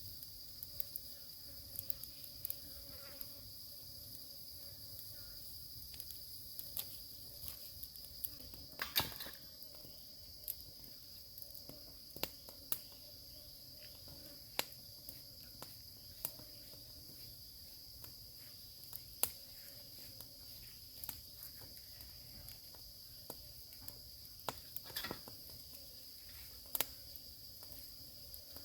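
Insects, crickets or similar, singing as a steady high-pitched drone, with scattered sharp clicks and taps throughout, one louder knock about nine seconds in.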